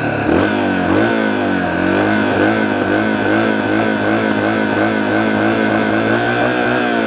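Dirt bike engine revved up and down over and over, its pitch rising and falling about twice a second in a warbling pattern, as a joke 'mating call' to other bikes.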